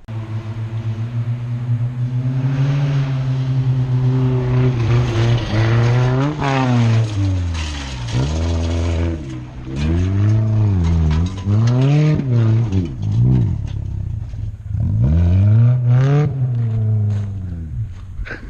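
A 1996 Toyota Celica's engine revving up and down about six times, its pitch rising and then dropping back after each climb.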